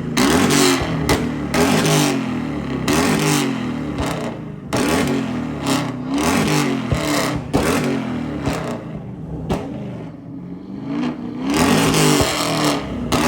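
A car engine revved hard over and over, its pitch climbing and dropping about once every second or so, with sharp cracks and pops from the exhaust between revs, as in a flame-tune rev contest. It eases off briefly about two-thirds of the way through, then revs again.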